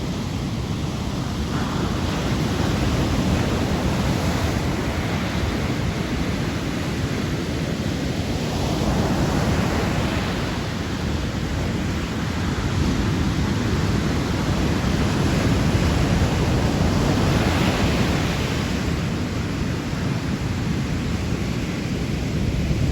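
Sea waves washing onto the shore at night, a continuous rush that swells louder and eases back every several seconds.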